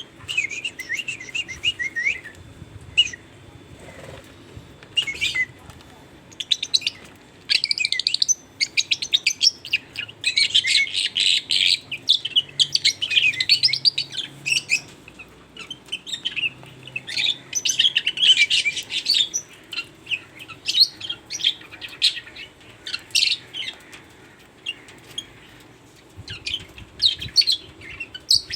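Lovebirds chirping and chattering: bursts of rapid, high-pitched chirps, thickest in the middle stretch.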